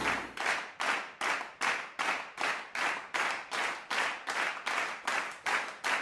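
Regular sharp, noisy percussive hits, about two and a half a second, each fading quickly.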